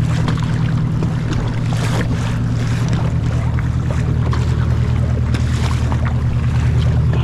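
Motorboat engine running steadily, a loud low hum with a fast throb, over wind and water splashes.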